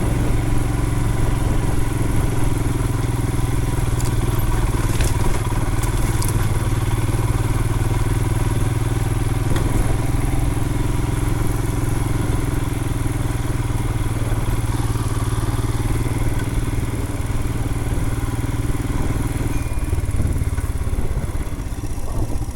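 Royal Enfield Himalayan's 411 cc single-cylinder engine running steadily under way on a dirt trail, with a few light clicks about four to six seconds in. The engine note drops about twenty seconds in.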